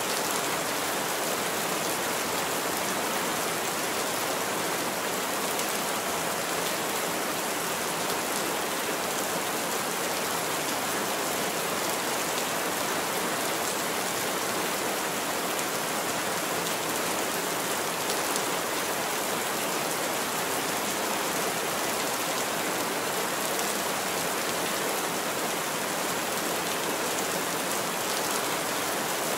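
Heavy rain falling steadily on a roof, an even, unchanging hiss.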